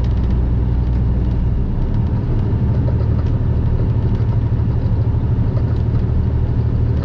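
Semi truck's diesel engine running steadily under load as it climbs a long grade with an empty trailer, a deep drone with road noise. The low note of the drone shifts about a second and a half in.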